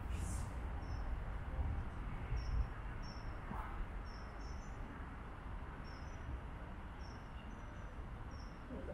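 Small bird chirping: short high chirps, some in pairs, repeating every second or so over a steady low rumble of outdoor background noise.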